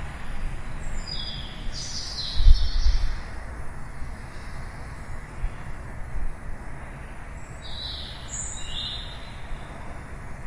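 Birds chirping in two short bouts of harsh, high calls, one near the start and one near the end. Under them runs a steady low hum of distant city traffic, with a brief low rumble about two and a half seconds in.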